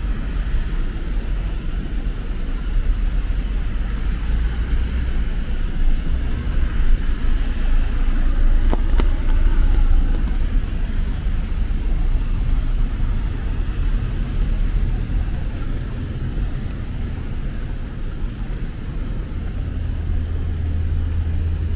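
City street traffic in the rain: vehicles running past on wet road with a steady low rumble and a constant hiss. A single short click comes about nine seconds in.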